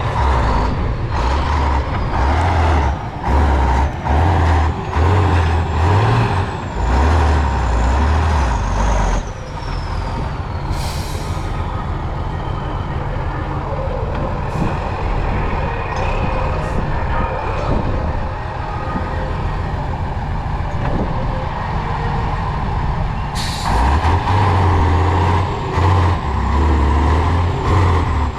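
Heavy off-road trial truck's engine revving hard in repeated surges, then settling to a lower, steadier run for about fourteen seconds with a falling whine and brief hisses of air, before revving hard again near the end.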